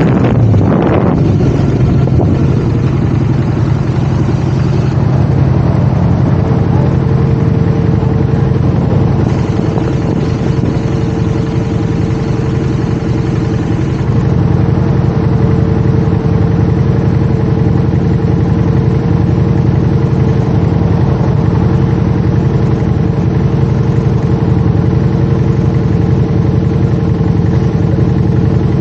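Motorcycle engine running steadily at constant revs, its pitch holding level throughout.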